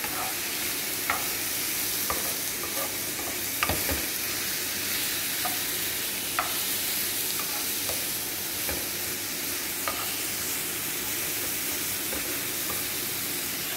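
Whole marinated shrimp sizzling as they fry in olive oil in a frying pan, with scattered sharp taps of a utensil stirring and turning them; the loudest tap comes nearly four seconds in.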